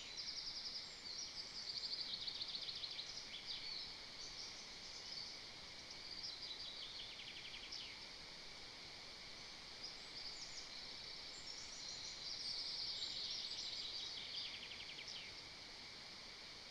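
A small songbird singing, several phrases of rapid trills that fall in pitch, over a steady outdoor background hiss.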